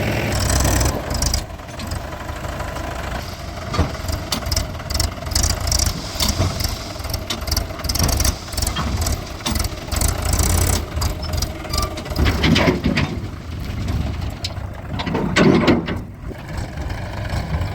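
Heavy diesel engine of a backhoe loader or farm tractor running at idle, with many sharp knocks and clanks over it.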